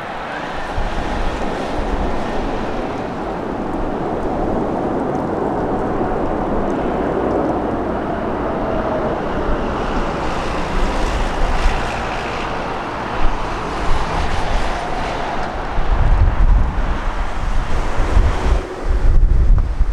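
Jet engines of a landing Boeing 777 airliner, a broad steady rumble with a faint whine sliding in pitch about halfway through. In the last few seconds heavy wind buffeting on the microphone takes over.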